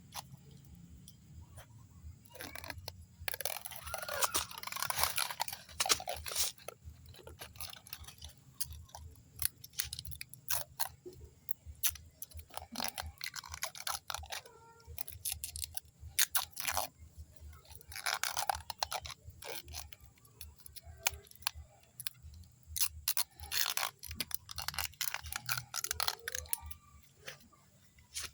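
Close handling noises of hands grafting a plant: irregular crackling and rustling bursts with many scattered small clicks.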